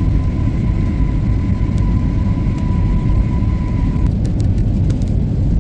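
Steady low rumble of a vehicle in motion, with a thin steady high tone over it that cuts off about four seconds in.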